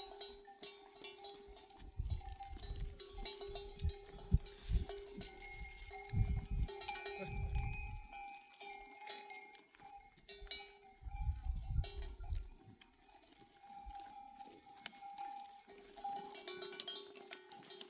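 Sheep bells ringing and clinking without pause as the flock moves. There are stretches of low rumble in the first half and again around the middle.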